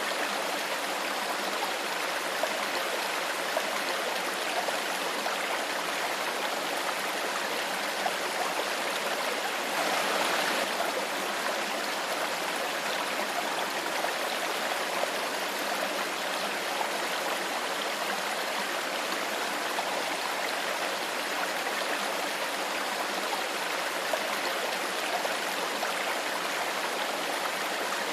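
Clear stream of water flowing steadily over stones, with a brief louder rush about ten seconds in.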